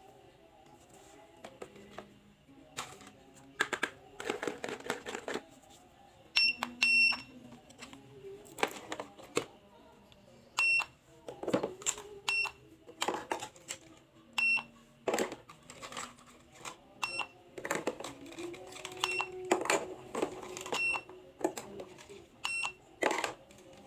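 Plastic toy pieces clacking and knocking as they are handled, with short high electronic beeps from a toy's buttons: three quick beeps about six seconds in, then single beeps every second or so.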